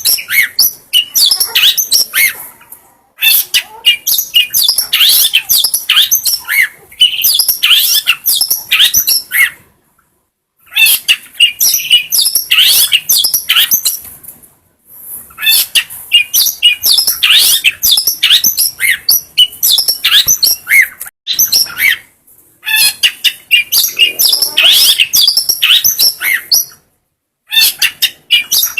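Long-tailed shrike (cendet) singing a rapid, chattering song of varied high notes in long runs, broken by a few brief pauses.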